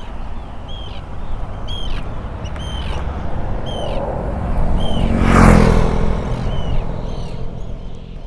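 A road vehicle passes, its tyre and engine noise swelling to a peak about five and a half seconds in and then fading. Throughout, a bird repeats a short, sharp call about once or twice a second.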